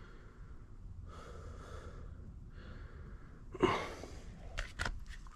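A person breathing close to the microphone: a few soft breaths, then a louder, sharper one about three and a half seconds in. A few small clicks of handling come near the end.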